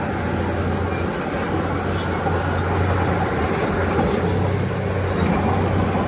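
Heavy diesel earthmoving machinery running steadily with a low, continuous drone.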